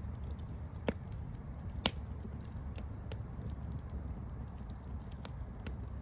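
Wood campfire crackling: a steady low rumble of the burning fire with scattered small crackles and two sharp pops about a second apart near the start, the second one the loudest.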